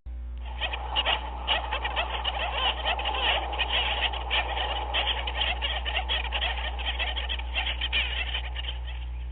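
A dense chorus of many overlapping short animal calls, busy and unbroken, over a steady low hum.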